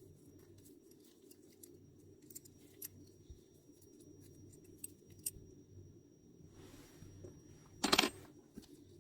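Small metal parts and hand tools handled on a workbench during the strip-down of a bicycle shifter: scattered light clicks and taps, a short soft rustle, then one louder clatter about eight seconds in.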